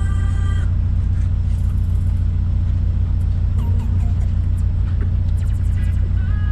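Volkswagen Santana's AP 2.0 four-cylinder engine and exhaust rumbling steadily while driving, a deep, even low drone with no revving.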